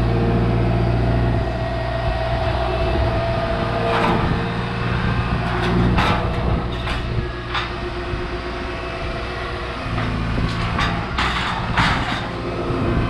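Volvo ECR 145 DL excavator's diesel engine running steadily, with sharp knocks: one about four seconds in, two more around six and seven seconds, and a cluster near the end.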